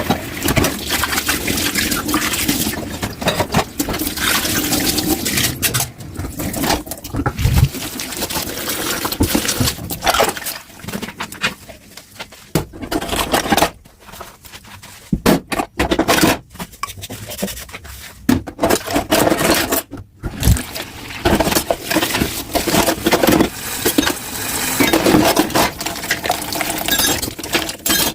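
Tap water running and splashing over dishes in a kitchen sink, broken off now and then, with dishes clinking and scraping as they are washed.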